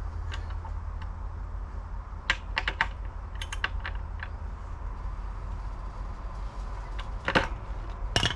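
Irregular sharp clicks and snaps in small clusters, with the loudest near the end, over a steady low rumble.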